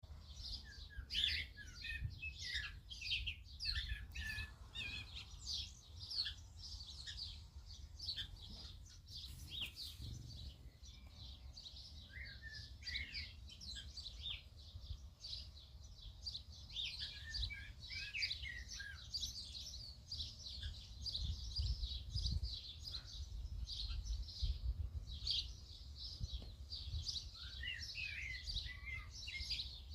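A flock of small birds chirping and tweeting together, many short overlapping calls without a break.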